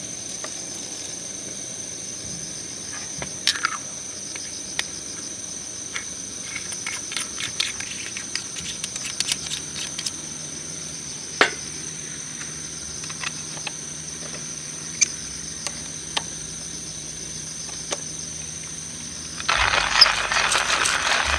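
Steady high-pitched insect chorus with scattered small clicks and clinks. A louder burst of noise comes for about three seconds near the end.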